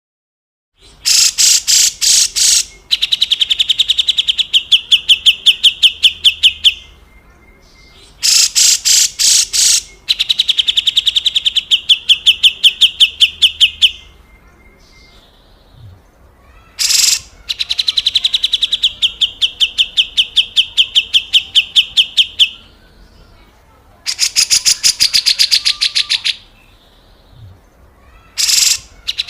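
Cucak jenggot (brown-cheeked bulbul) giving its harsh 'besetan' call: each bout opens with a few coarse notes, then runs on as a long, rapid buzzing rattle. The bouts repeat about four times with short pauses between them.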